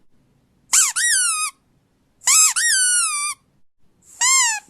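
Rubber squeaky dog toy squeezed three times: three high-pitched squeaks, each about a second long, rising then sliding down in pitch.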